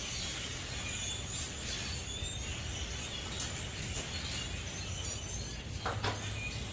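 A large flock of small birds chattering, with many overlapping high chirps and tinkling calls throughout, over a steady low rumble.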